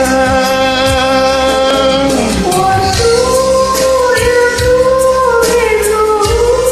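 Karaoke singing: a voice holding long, slightly wavering notes over a backing track with a steady low beat.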